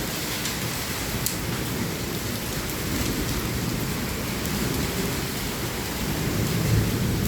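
Heavy rain pouring down with hail mixed in, making a steady, dense hiss. A few sharp ticks stand out, one about a second in. A low rumble swells near the end.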